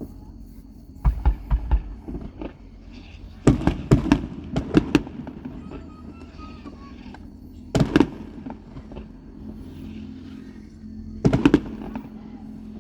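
Aerial fireworks bursting in four separate volleys of quick, sharp cracks, with quieter stretches between them.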